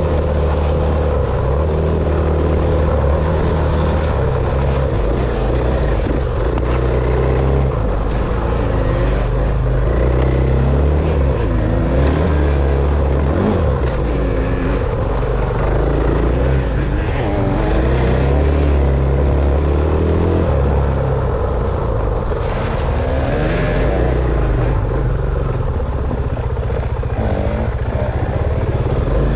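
Dirt bike engine running while being ridden, the revs rising and falling repeatedly over a steady low rumble.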